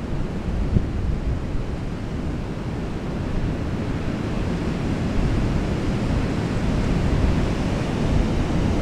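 Ocean surf washing steadily onto the beach, mixed with wind buffeting the microphone in a low, uneven rumble.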